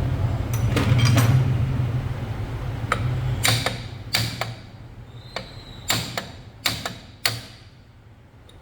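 Workshop sounds of hand assembly on a motorcycle engine: a steady low machine hum that stops about three and a half seconds in, with a string of sharp metallic clicks and knocks from parts and tools being handled, about ten in all.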